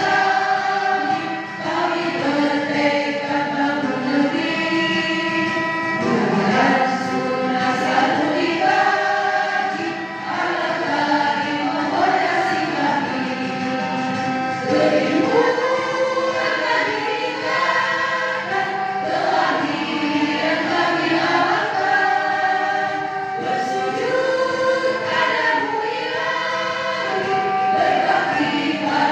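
A group of voices singing a march song together in chorus.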